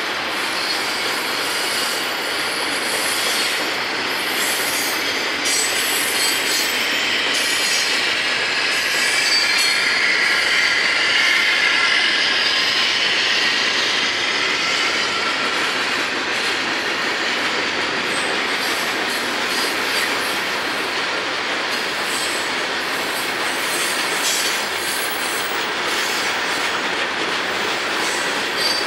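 Freight train's boxcars, tank cars and hoppers rolling past at steady speed: a continuous rumble and rattle of wheels on rail with scattered clicks. A high wheel squeal rises and fades about ten seconds in.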